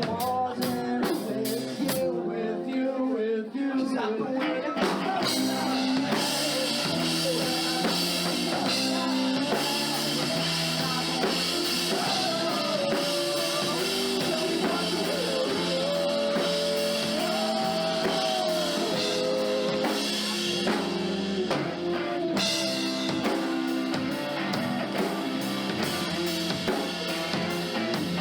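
Live rock band playing: drum kit, guitars and bass, with sharp drum hits in the first couple of seconds before the full band plays on.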